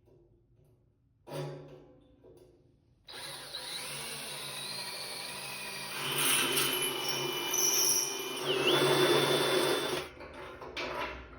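Electric drill boring a hole through 3/8 inch steel plate: the motor starts about three seconds in and runs steadily, the bit cutting with a thin high squeal that gets louder partway through, then stops. A single knock comes just before it.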